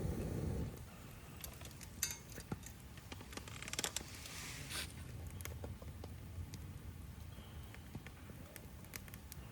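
Wood fire crackling, with scattered sharp pops and a denser flurry of crackles about four seconds in. A low rumble comes at the very start.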